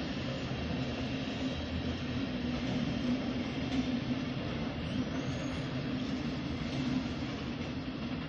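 DB regional train of double-deck coaches hauled by an electric locomotive passing: a steady rolling rumble with a low drone.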